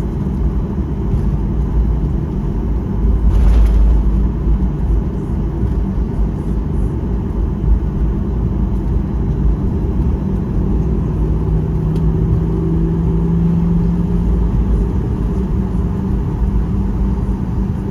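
Steady low rumble of a Boeing 737-800's engines heard from inside the cabin while the aircraft is on the ground before takeoff. It briefly swells louder about three seconds in, and a faint steady hum comes in for a few seconds past the middle.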